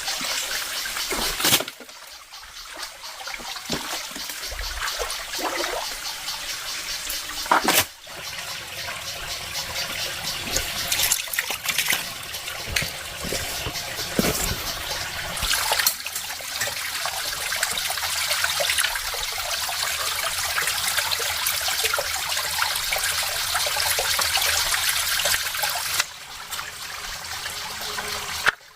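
Water trickling and splashing steadily, with the level dropping or jumping abruptly a few times.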